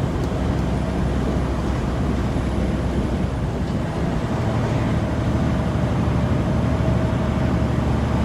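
Steady engine drone and road noise of a semi-truck heard from inside the cab while driving.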